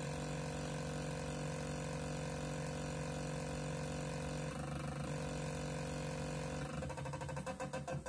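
Glitch synthesizer holding a steady, dense electronic tone with many pitches stacked together. Near the end it breaks into fast, choppy stuttering.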